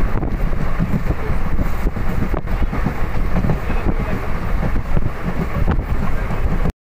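Wind rushing over the microphone at the open window of a moving passenger train, with the train's steady running rumble beneath it. The sound cuts off abruptly just before the end.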